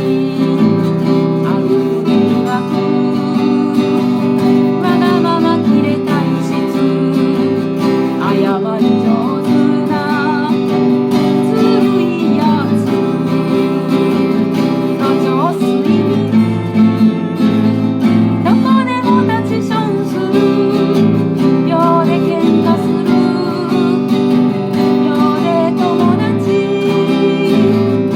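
A song played on strummed acoustic guitar, with a singing voice carrying the melody.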